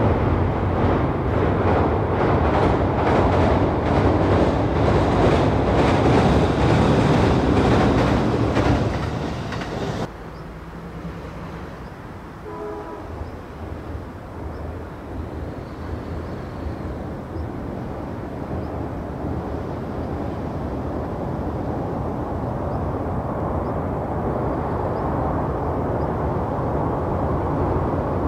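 Train passing close by: a loud rumble with a regular clatter of wheels over rail joints, which cuts off suddenly about ten seconds in. Then another train's rumble, quieter at first, grows steadily louder as it approaches.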